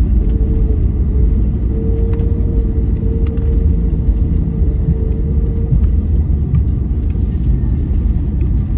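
Steady low rumble of an Airbus A321 heard inside the cabin, with a steady mid-pitched tone held over it for about six seconds before it fades.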